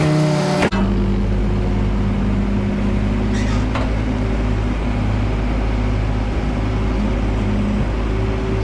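A different, wavering engine sound cuts off abruptly under a second in and gives way to farm machinery's engine running steadily at a constant speed, with a low even drone.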